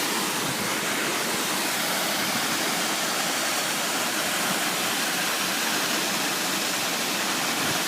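Waterfall crashing into a pool close by: a steady, even rush of falling water.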